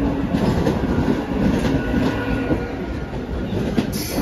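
Mumbai suburban local train (electric multiple unit) running along the platform: a steady rumble of the moving coaches and wheels on the track, with a short sharp noise near the end.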